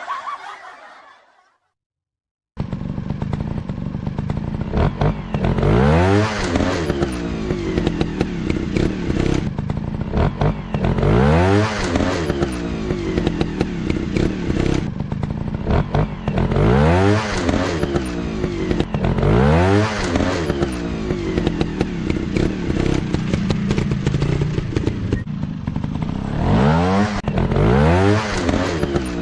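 Dirt bike engines running, revving up and dropping back again and again, a rev every few seconds over a steady engine drone. It starts abruptly about two and a half seconds in, after a short silence.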